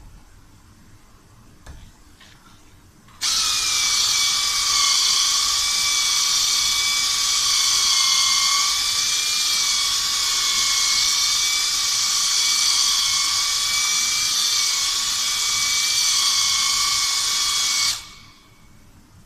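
A power tool runs continuously for about fifteen seconds, starting about three seconds in and cutting off near the end. It gives a high, slightly wavering whine over a strong hiss, as a tool works on a car door panel during dent repair.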